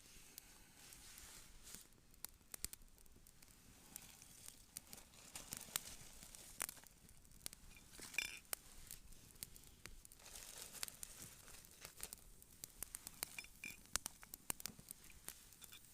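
Wood campfire crackling, with irregular sharp snaps and pops over a soft hiss.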